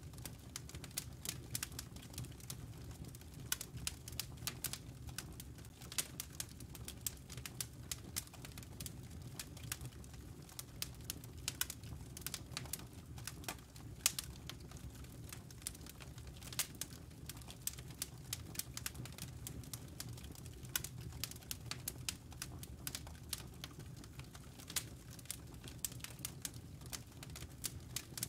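Wood fire burning in a fireplace: burning logs crackling and popping in quick, irregular snaps over a steady low rumble of flames.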